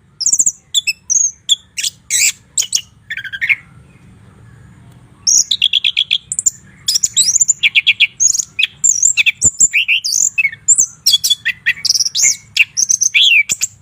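White-rumped shama (murai batu) singing: a fast series of clear whistles, trills and chattering notes. A gap of about a second and a half comes near the first third, and then a dense, unbroken run of notes follows.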